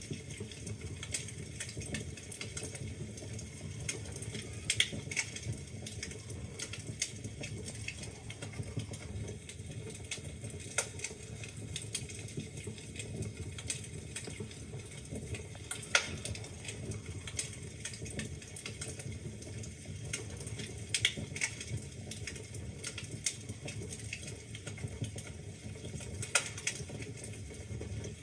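Wood fire burning in a fireplace: logs crackling with irregular small clicks and occasional louder pops, over a steady low rumble of the flames.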